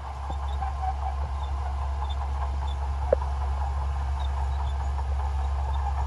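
Shantui crawler bulldozer working: a steady low diesel drone with irregular clatter from the steel tracks, and one short squeak about three seconds in.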